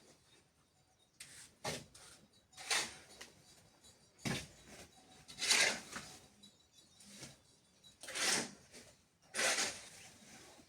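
A series of short, gritty scraping strokes, about one a second with short pauses between, from a hand tool working wet sand-and-cement mortar while a floor is cemented.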